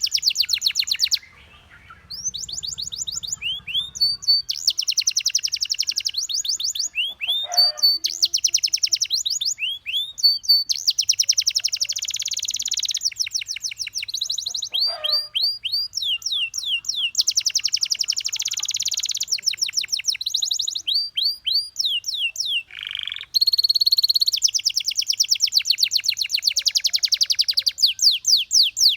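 Canary singing: long rapid trills and quick runs of falling whistled notes, in phrases of a few seconds with brief pauses between.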